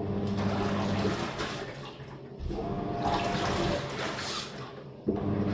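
Living & Co 5.5 kg top-loading washing machine agitating, its wash plate turning back and forth through the water. A motor hum starts with each stroke, about every two and a half seconds, three times, over a swish of sloshing water.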